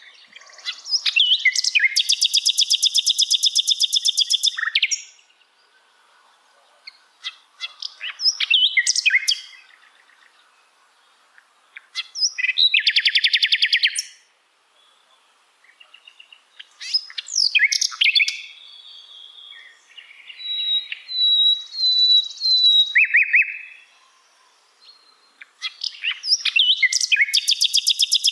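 Sikatan londo singing: loud phrases of rapid trilled and chattering notes, broken by short pauses, with a few clear, high whistled notes near the middle.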